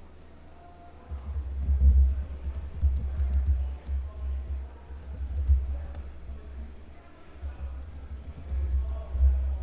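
Typing on a computer keyboard in uneven runs: sharp key clicks with heavy low thuds through the desk, over faint background music.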